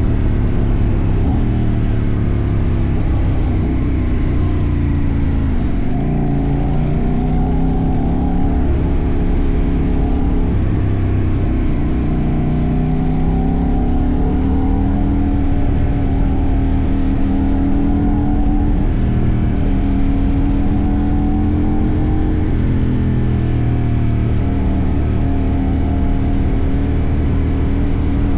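CFMoto 800NK's 799 cc parallel-twin engine under way, revs climbing and dropping several times as the rider accelerates, shifts and rolls off, heard close up from the fuel tank.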